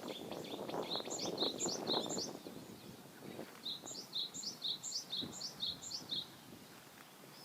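A songbird singing two phrases of quick, repeated down-slurred high notes, about three a second: the first about a second in, the second starting a little over three and a half seconds in. Under the first phrase there is a rough, rustling noise.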